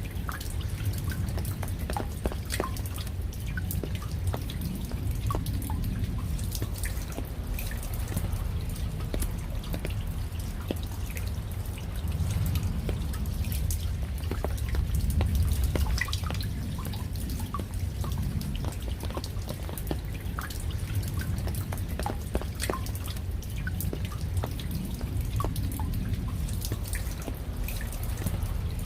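Raindrops dripping: many separate drops falling at an irregular pace over a steady low rumble.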